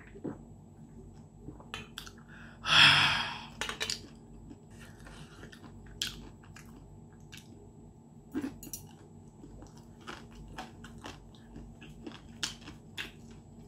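Close-up crunchy chewing of crispy battered fried chicken cartilage, sharp crackling clicks scattered throughout. One loud breathy rush of air about three seconds in.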